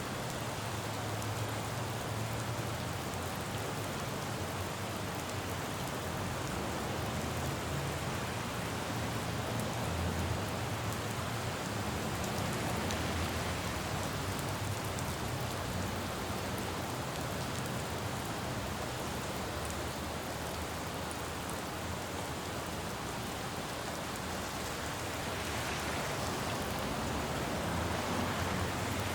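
Steady rain falling on a city road, over a low, steady rumble of traffic; the hiss swells briefly near the end.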